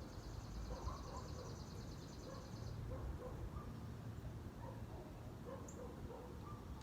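A songbird singing one rapid, even trill of high notes that lasts about three seconds, followed by a single short high chirp near the end, over a steady low background rumble.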